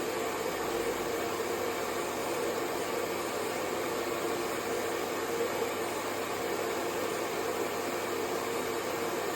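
Hair dryer blowing steadily: an even, unbroken whoosh with a mid-pitched hum running through it.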